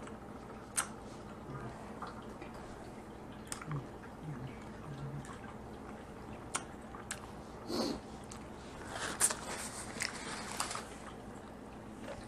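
Close-up eating sounds of Dungeness crab: chewing and wet squishes, with scattered sharp clicks of shell and a denser crackly stretch about nine seconds in.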